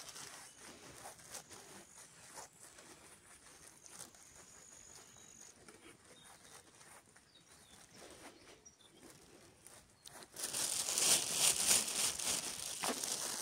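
Quiet rural outdoor ambience with a few faint, thin high tones, then from about ten seconds in, louder crunching and rustling of footsteps through dry vegetation.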